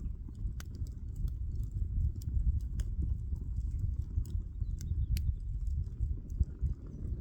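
Wood campfire burning, with irregular sharp crackles and pops from the burning wood over a steady low rumble.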